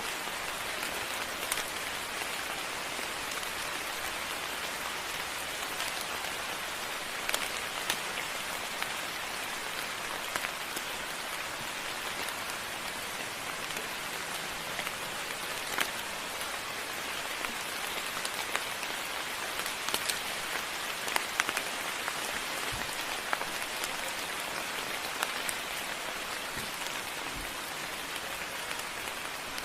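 Steady moderate rain falling, with scattered sharp taps of drops hitting a surface close by.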